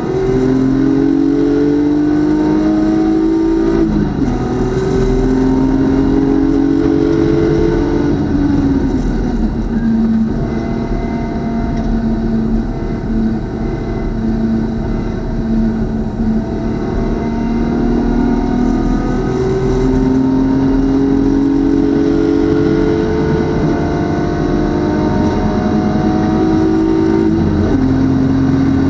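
BMW club race car's engine at racing speed, climbing in pitch under full throttle and dropping sharply on an upshift about four seconds in. It eases off around eight seconds, runs lower and fairly steady through the middle, then pulls up again in one long climb before another sharp upshift near the end.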